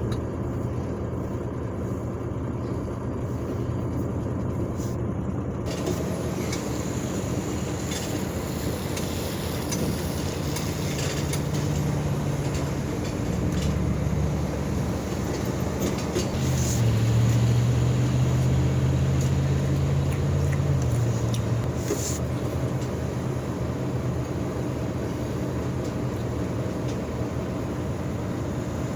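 Heavy truck diesel engine running steadily, revving up twice, the second time longer and louder, as it strains to pull a stuck load out of mud.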